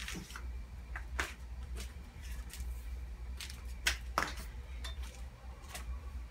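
Metal parts of a miter saw stand clinking and knocking as they are handled, scattered sharp clicks with the two loudest close together about four seconds in, over a steady low hum.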